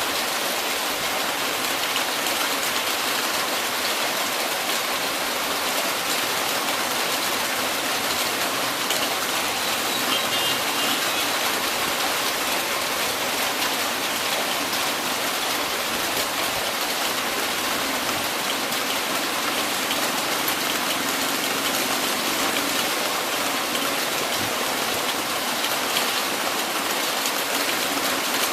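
Heavy rain falling steadily, an even hiss of water with no breaks or changes in level.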